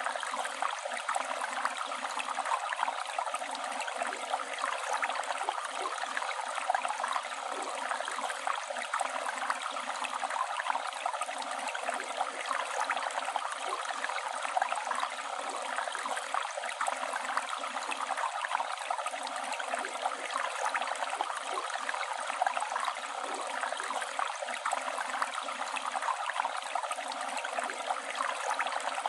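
Flowing river water running over stones, a steady babbling rush with fine splashing detail and little deep rumble.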